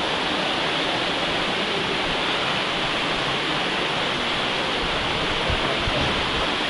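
Small mountain river rushing and splashing over rocks, a steady full hiss of running water.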